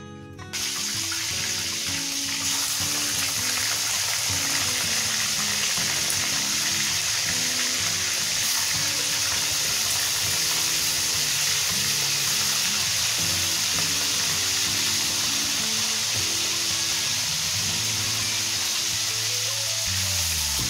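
Chicken pieces frying in hot oil in a wok: a loud, steady sizzle that starts suddenly about half a second in as the chicken goes into the oil. Background music plays underneath.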